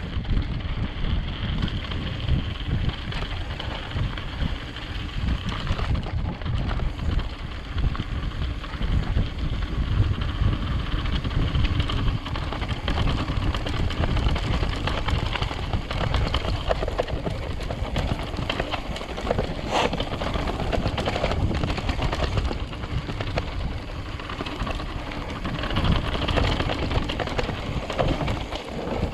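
Mountain bike riding fast over a rough dirt trail: wind buffeting the action-camera microphone over a steady rumble of tyres and a constant rattle of the bike over the ground.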